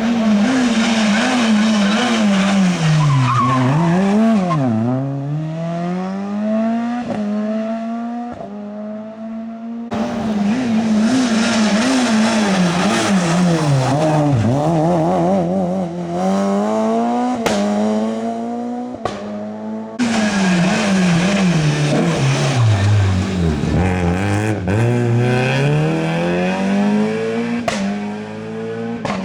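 Rally car engines driven hard, the revs repeatedly climbing through the gears and dropping on lift-offs and braking. The sound comes in three separate passes, cut off abruptly about ten and twenty seconds in.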